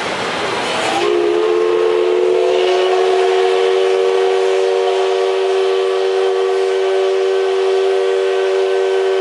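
Steam whistle of the C61 steam locomotive sounding one long, steady blast of several tones together. It starts about a second in, after a loud hiss.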